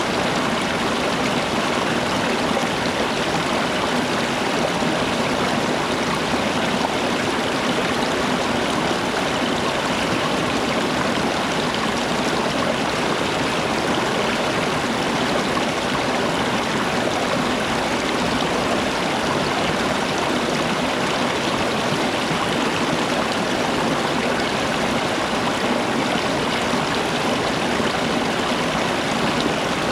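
Flowing water rushing steadily, an even unbroken noise.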